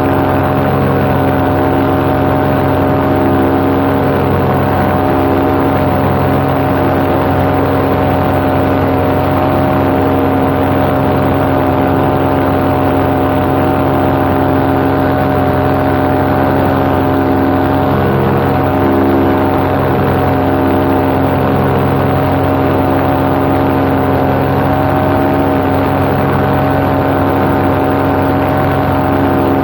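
Paramotor engine and propeller running loud and steady at cruise power in flight, holding an even pitch throughout.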